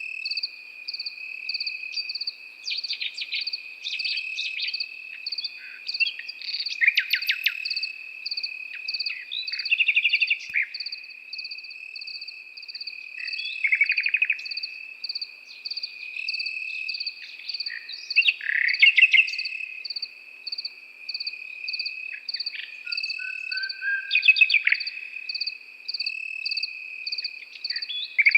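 Nightingale singing in separate phrases of rapid repeated notes and short whistles every few seconds, over crickets: one steady high trill and a second cricket chirping in fast, even pulses above it.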